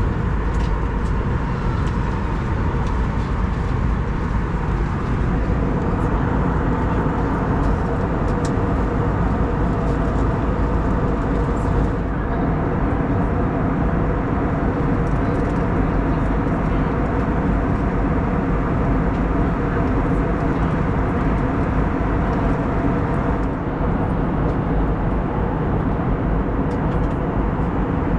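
Steady cabin noise of an Airbus A320neo in cruise: airflow over the fuselage and engine drone, with a few low hums held at an even pitch.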